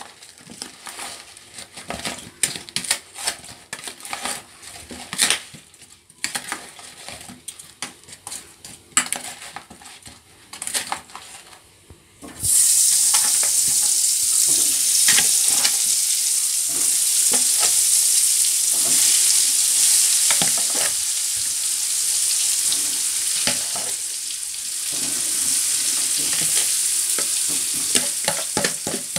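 A metal spoon stirring and scraping spice-coated halved potatoes in a plastic bowl, with scattered light clicks. About twelve seconds in, a loud sizzle starts suddenly as the potatoes go into hot ghee in a steel kadhai, and the frying keeps sizzling steadily.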